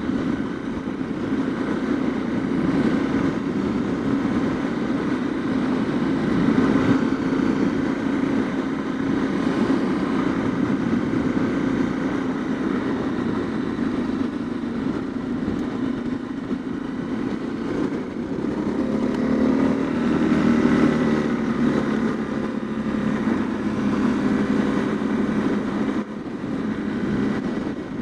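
Honda CRF250L's single-cylinder four-stroke engine running steadily while riding, its pitch climbing for a few seconds around twenty seconds in.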